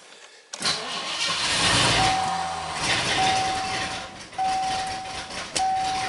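A 1981 Mercury Grand Marquis's 351 V8 is cranked in a hard cold start at −26 °C, the engine prone to flooding. The cranking starts suddenly about half a second in and carries on. A steady high tone beeps in roughly one-second stretches over it.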